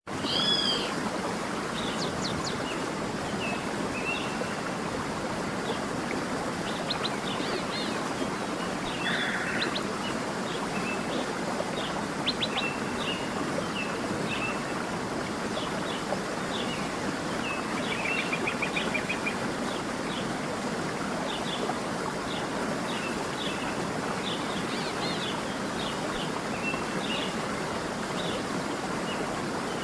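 Small birds chirping and singing in short repeated calls and trills over a steady wash of running stream water.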